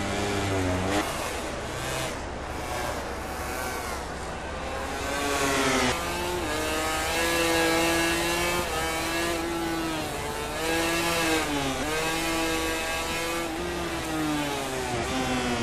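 MotoGP racing motorcycle engine at full race pace, its pitch climbing under acceleration and dropping sharply on braking and downshifts about a second in, around six seconds and again near the end.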